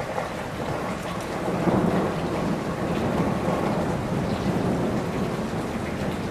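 Steady rain falling on broad tree leaves, with a low rumble of thunder that swells about one and a half seconds in and slowly fades.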